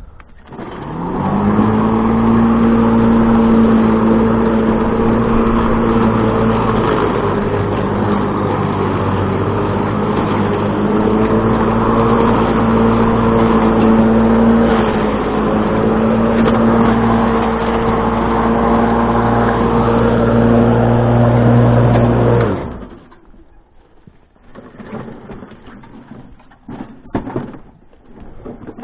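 Corded electric string trimmer's motor spinning up about a second in and running at a steady high pitch with a few brief dips, then shutting off abruptly near the end, followed by a few light knocks.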